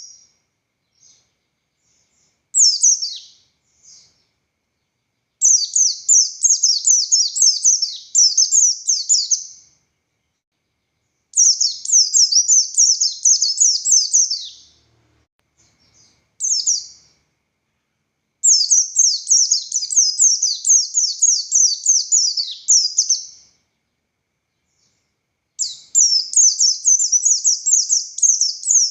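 Buxtoni white-eye (pleci) singing in fast, high, chattering phrases of rapid notes, each phrase a few seconds long with short pauses between, about six phrases in all.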